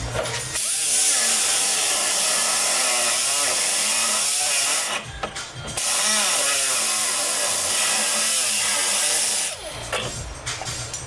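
A high-speed power cutting tool, such as a cut-off wheel or grinder, cutting into a 1978 Trans Am's body sheet metal. It runs in two long cuts of about four seconds each with a short break between them, its pitch wavering as it bites.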